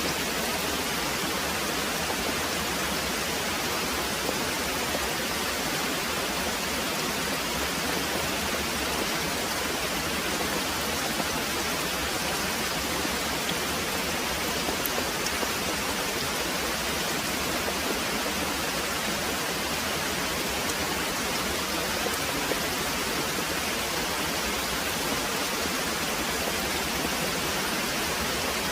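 Very heavy rain pouring steadily: a dense, even hiss with no breaks.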